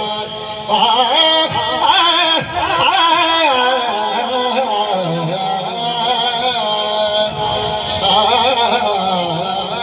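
A man singing the opening of a devotional qasida in slow, drawn-out notes that waver and turn, with no clear words yet.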